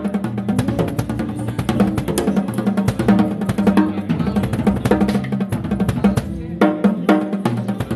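A drum kit being played in a busy groove, kick and snare hits with many quick strokes, within music that also carries bass notes and other pitched instruments.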